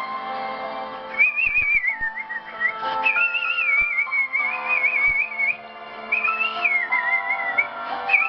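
A person whistling a melody in phrases with a wavering, vibrato-like pitch over an instrumental backing track. There are short breaks between phrases, one around a second in and one near six seconds in.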